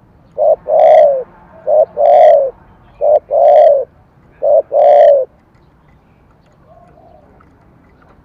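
Spotted dove (cu gáy) cooing: four two-part calls, each a short note followed by a longer one, about every 1.3 seconds, stopping a little after five seconds in. Vietnamese dove keepers call this voice type 'thổ cấn sấm'.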